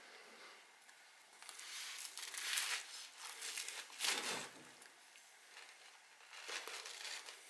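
A chef's knife sawing through a sesame-seed burger bun and fish patty, in three spells of cutting noise, the loudest about four seconds in.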